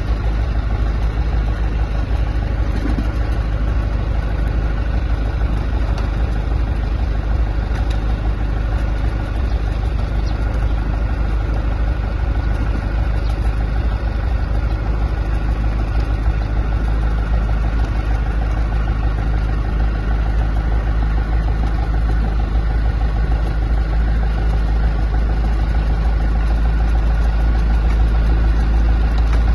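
An engine running steadily at idle, a low, even drone with no breaks.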